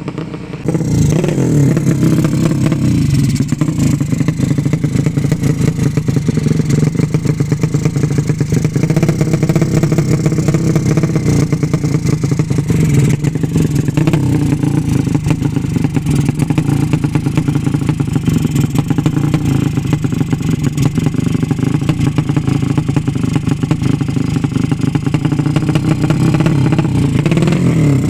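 A 200 cc drag-racing motorcycle engine running loud, picking up about a second in and then held at fairly steady revs with small rises and falls.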